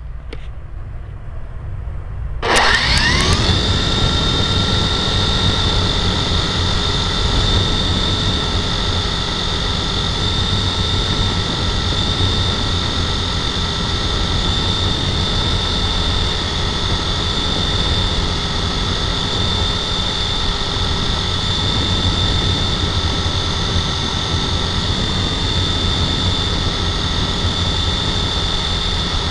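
Remote-controlled model helicopter's motor and rotor spinning up about two and a half seconds in, its pitch rising quickly, then running as a steady high whine.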